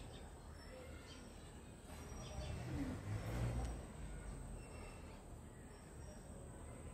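Faint outdoor ambience with scattered bird chirps. A low rumble swells about halfway through.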